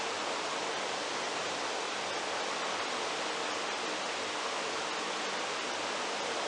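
A steady, even rushing noise that does not change in level and has no rhythm, tone or clicks.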